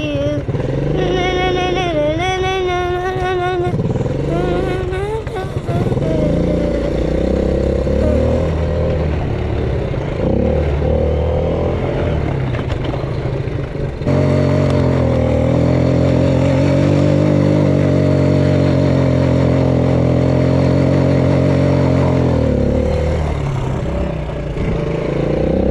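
Small off-road vehicle engine running under way. The pitch wavers at first, then settles into a louder, steady drone for several seconds past the middle before easing off near the end.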